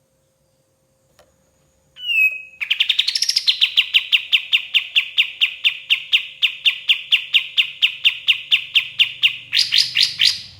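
Kapas tembak songbird singing: a short call about two seconds in, then a long, rapid run of repeated falling notes, about four a second, ending in a few higher, quicker notes.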